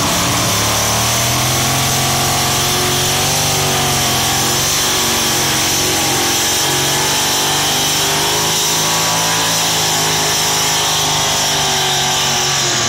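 A pulling truck's or tractor's engine at full throttle: it climbs in pitch at the start, then holds at high revs with a slight waver and a steady high whine over it.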